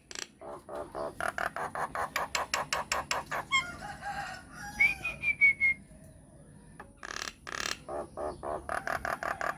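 A myna calling: a fast run of repeated chattering notes, about six a second, then a noisy call and a falling whistle, and after a short pause about halfway through, another fast run of chatter.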